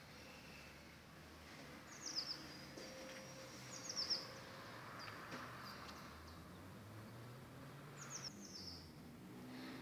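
Small bird chirping in short quick clusters of high, falling notes, heard four times, faintly through an open window over a low steady hum.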